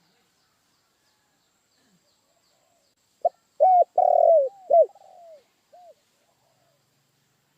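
Spotted dove (tekukur) cooing: after about three seconds of silence, one phrase of several arched coos lasting about three seconds.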